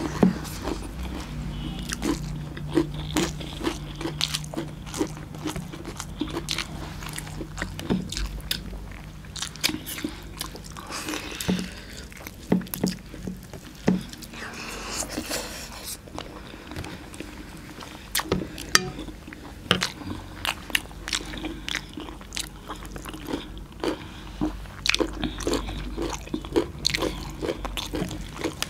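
Close-up eating sounds of two people eating mutton and rice by hand: chewing, biting and crunching, with many sharp wet smacks and mouth clicks.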